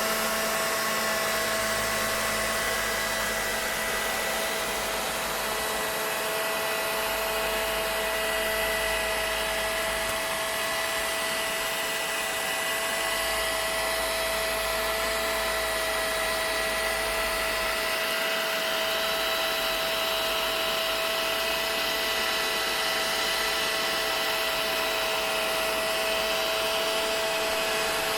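Vacuum cleaner running continuously: a steady rush of air with a constant motor whine held at one pitch.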